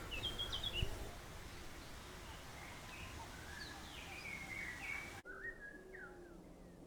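Faint birdsong from several birds: short high chirps and whistled glides over a light hiss. About five seconds in, the hiss drops away abruptly and lower repeated calls come in beneath the chirps.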